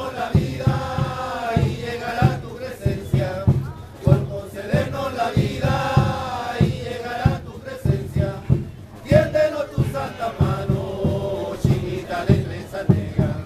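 A religious dance troupe's group chant sung in unison over steady drumbeats, in repeated phrases.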